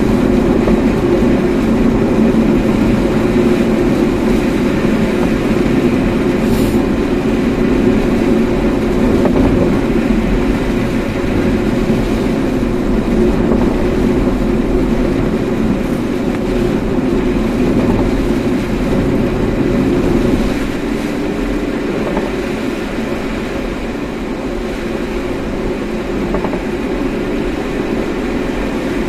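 Steady road and engine noise of a car driving, heard from inside the cabin, easing off slightly about twenty seconds in.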